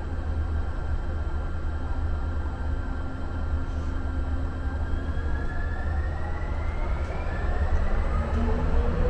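Muni Metro light rail car running through a subway tunnel: a steady low rumble with a constant hum, and from about halfway through a whine that rises slowly in pitch as the train picks up speed.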